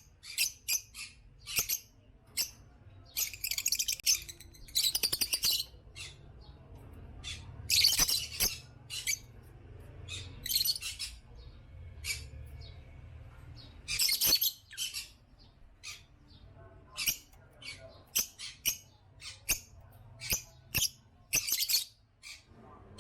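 African lovebirds chirping and squawking in many short, shrill calls, a few of them drawn out to about a second, over a faint low hum.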